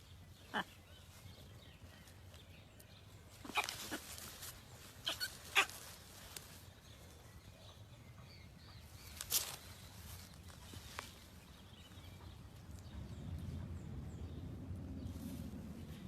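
Parrots giving short, sharp squawks every few seconds, the loudest around three and a half, five and a half and nine seconds in. A low rumble builds in the background in the last few seconds.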